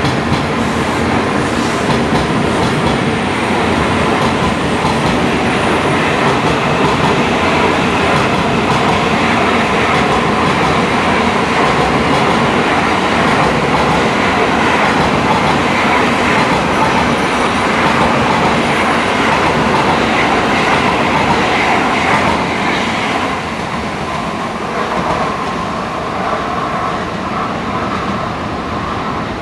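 Tokaido Shinkansen train pulling out of the station, its long line of cars rolling past with a steady rushing rumble. About 23 seconds in the sound drops off as the last car goes by, then fades as the train draws away.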